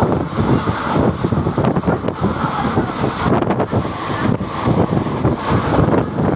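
Passenger train running at speed, heard from on board: a continuous rumble and rattle with irregular knocks, and wind buffeting the microphone.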